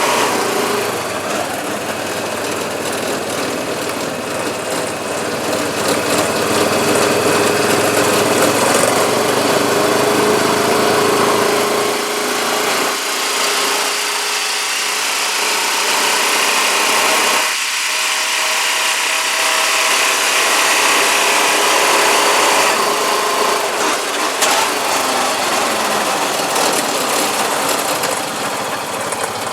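Four-wheeler (ATV) engine running as it is ridden. The engine note is steady, its pitch drifting a little with the throttle, over a steady hiss.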